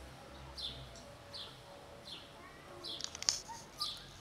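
A small bird chirping over and over: short, high, falling chirps, about one every three quarters of a second. A few sharp clicks come about three seconds in and are the loudest sound.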